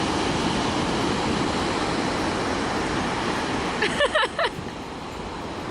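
Pacific ocean surf washing steadily, with wind buffeting the microphone. About four seconds in there is a brief run of short, high, voice-like cries.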